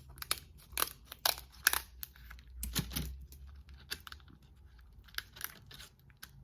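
Crab shell cracking and snapping as it is broken open: an irregular run of sharp cracks and crackles, loudest in the first three seconds, then lighter ones.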